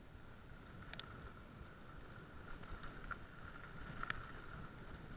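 Low rumbling noise of a bicycle moving along a trail, with a faint steady whine and a few sharp clicks about one, three and four seconds in.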